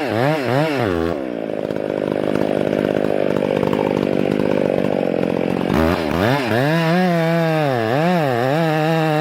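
Gas chainsaw engine revving up and down. From about a second in it drops to a lower, rougher steady sound for about four and a half seconds as the chain bites into the wood, then revs freely again and settles to a steady high pitch near the end.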